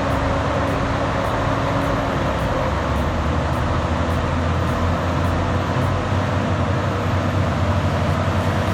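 Heavy machine's engine running steadily with a low hum, at an even pitch and level.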